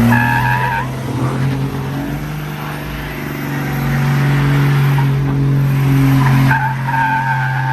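A vehicle doing a burnout: the engine is held at steady high revs while the spinning tyres squeal. The squeal gives way to a rough scrubbing hiss about a second in and comes back near the end.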